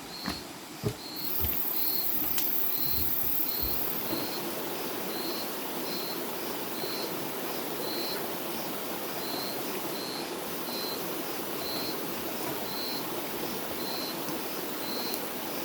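Rainforest ambience: an insect chirping at a steady pace, just under twice a second, over a steady rush that fits flowing water. A few soft knocks in the first four seconds, two of them sharp.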